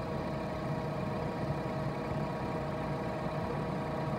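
2013 Chevrolet Tornado's 1.8-litre four-cylinder engine idling steadily, heard close up with the hood open.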